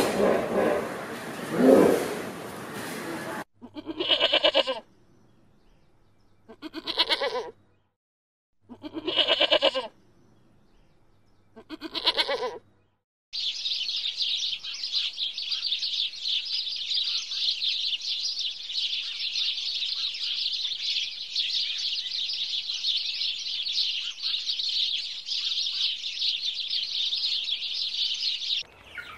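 Bleating livestock: four separate pitched bleats of about a second each, a couple of seconds apart, after a louder noisy opening. They are followed by about fifteen seconds of steady, high chirring hiss.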